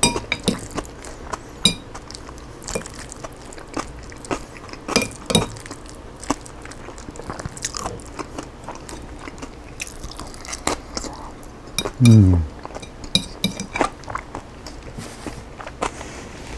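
Close-miked chewing and crunching of a chicken and raw cabbage salad, with irregular clicks and light clinks of a utensil on the dish. About twelve seconds in, the eater gives one short falling "mmm".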